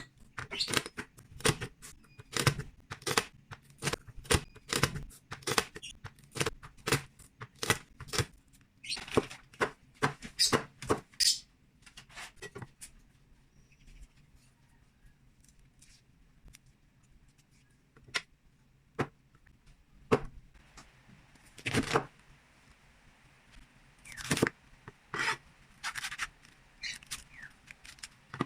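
Knife cutting ingredients on a chopping board: quick sharp chops and scrapes about two a second, a quieter pause about halfway, then sparser cuts and scraping.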